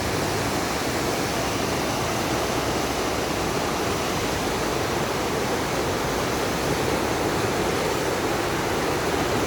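The River Ebbw in flood at full flow: a fast, swollen torrent rushing steadily.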